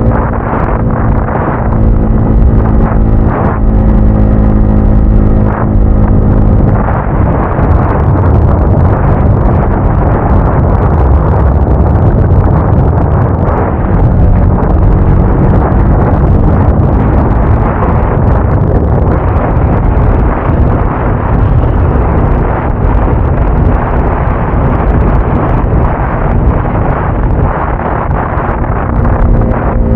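Motorcycle engine running on the move, its pitch shifting over the first several seconds as it changes speed. A heavy rumble of wind on the microphone then drowns out the engine note for most of the stretch.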